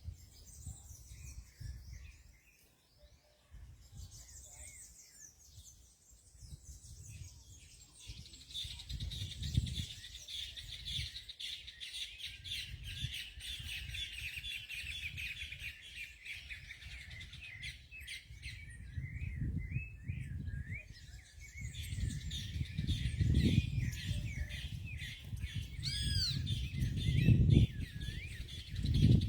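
Songbirds chirping and singing, a dense chorus of overlapping high calls that thickens a few seconds in, over a low rumble on the microphone.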